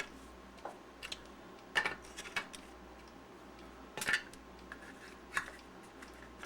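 Rechargeable battery cells and the plastic battery-pack case clicking and tapping as they are handled and fitted together: about half a dozen light, scattered taps.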